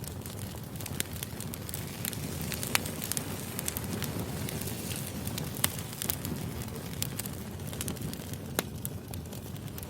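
Wood fire burning with a steady low rumble and irregular sharp crackles and pops, two of them louder, about three and six seconds in.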